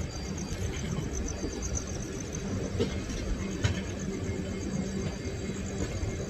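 Passenger train coach running slowly along the track, heard from its open door: a steady rumble of wheels on rails, with a couple of sharp knocks about three seconds in.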